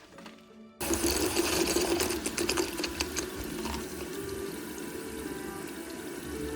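A small electric motor whirring steadily, with water splashing and running. It starts abruptly about a second in, with a run of splashy clicks over the first two seconds.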